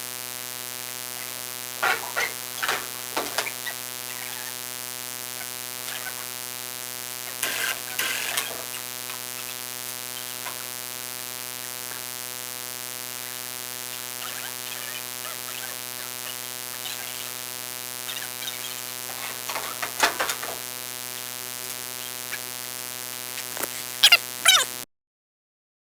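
A steady electrical buzzing hum with many overtones, broken by scattered crackles and clicks, cutting off abruptly to dead silence about a second before the end.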